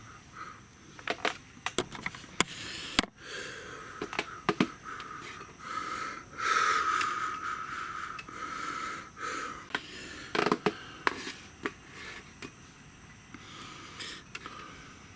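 Wood bonfire crackling, with irregular sharp pops and snaps and a soft hiss that swells for a couple of seconds midway.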